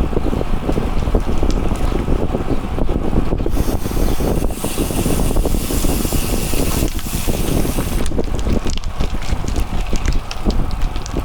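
Wind buffeting the microphone of a camera on a moving bicycle, with a steady rumble of riding. A brighter hiss joins it for about four seconds in the middle.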